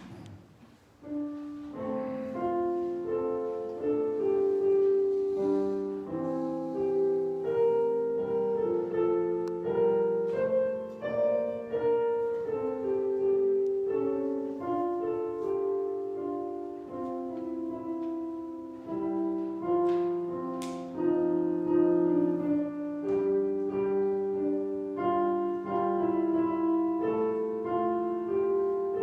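Piano playing a slow piece of held chords under a melody line, starting about a second in.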